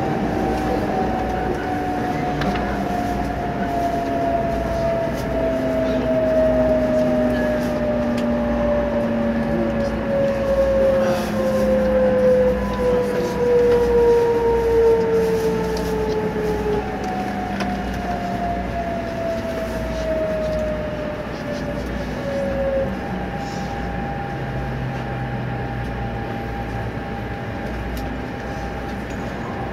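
E2 series Shinkansen heard from inside the passenger car as it brakes into the platform: the motor whine falls slowly and steadily in pitch as the train loses speed, over the rumble of the running gear. About three quarters of the way through the falling tones end as the train comes to a stop, leaving a steady hum.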